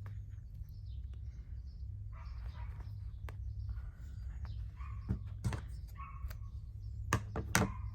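A small dog yapping, a few short sharp yaps in the second half, over a steady low hum.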